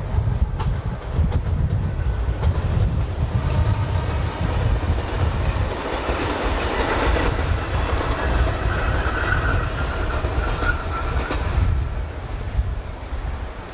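A train running past on the rails, its wheels clacking over the rail joints with a steady heavy rumble. A thin high tone rises out of it about two-thirds of the way through.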